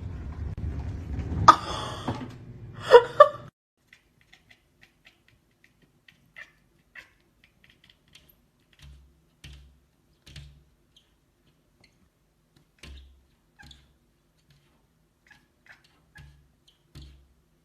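Kitten meowing twice, loudly, about a second and a half in and again about three seconds in, over a low steady background hum. After that only faint, scattered soft taps are heard.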